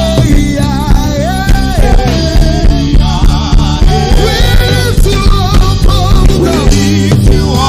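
Live gospel worship music: a band with bass, drums and guitar playing with a steady beat under sung vocal lines.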